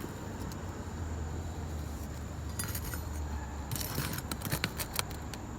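Sharp metal clicks and scrapes of a roof snake working a nail out from under an asphalt shingle. The clicks come in a quick flurry from about three and a half seconds in, over a steady low rumble.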